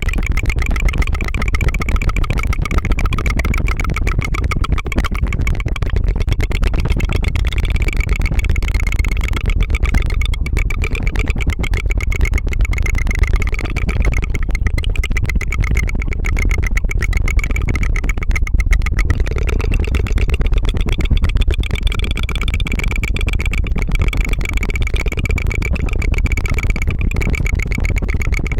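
Rapid tongue fluttering close to the microphone: a continuous fast trill of tongue flaps that sounds like a running motor or a helicopter.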